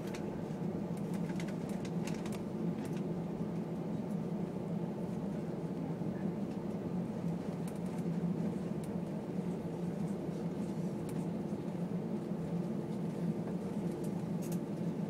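Airbus A320 cabin noise while the airliner rolls along the ground after touchdown: a steady engine and airflow hum with a few faint rattling ticks.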